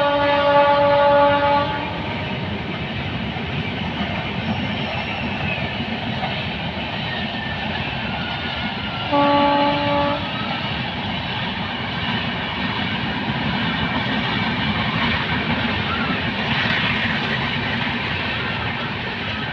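Electric locomotive's horn sounding as a fast train passes, cutting off a couple of seconds in, with a second short horn blast about nine seconds in. Between and after the blasts, the steady rushing of the train's wheels on the rails.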